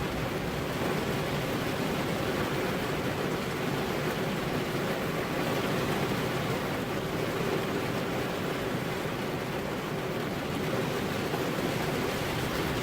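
Steady rainfall, an even hiss with no single drops or thunder standing out.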